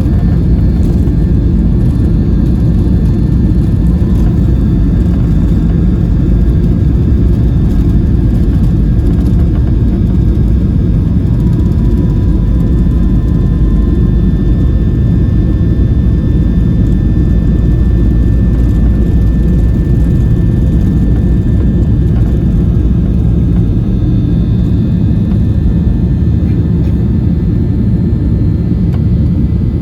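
Boeing 737-800 cabin noise: the CFM56 jet engines run loud and steady over a deep rumble, with a few faint steady whines above. The deepest rumble eases in the last few seconds.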